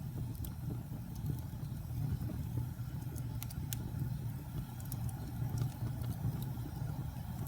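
Campfire burning: a steady low rumble of the flames, with a few sharp crackles and pops of burning wood scattered through it.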